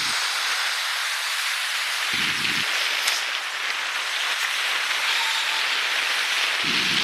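Strong winter storm wind blowing with a steady hiss, with gusts buffeting the microphone as short low rumbles about two seconds in and again near the end.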